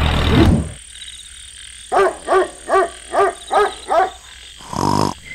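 A steady noise stops just under a second in. After it come six short, evenly spaced animal calls, about three a second, each rising and falling in pitch, and then one longer, buzzier call near the end.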